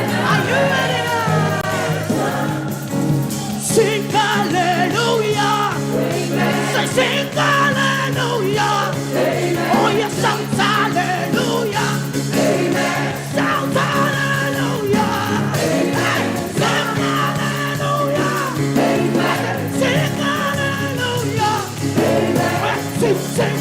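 Live gospel praise music: voices singing over a steady band accompaniment with drums.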